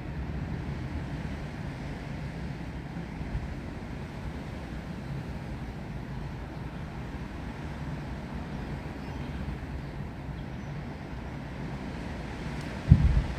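Steady wind with rain, heavy in the low rumble of wind on the microphone. A sudden louder low thump comes near the end.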